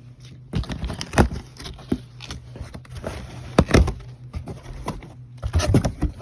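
Cardboard box and packing being handled and rummaged through: irregular rustles and knocks, with sharp thumps about a second in, in the middle and near the end, over a steady low hum.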